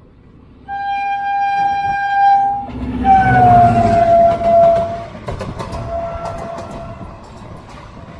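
Horn of a Ballari–Hospet DEMU (diesel-electric multiple unit) train: one steady blast, then a second, longer one that drops slightly in pitch, with a faint short toot after. Under the horn is the train's rumble and the clatter of its wheels.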